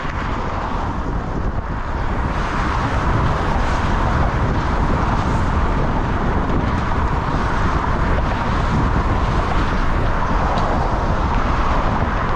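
Steady loud rushing noise with a low rumble.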